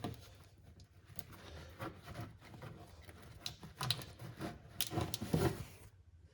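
Irregular rubbing, scraping and light knocks of hand work clearing water and dirt out of a car's strut tower well. It is busiest about four to five and a half seconds in.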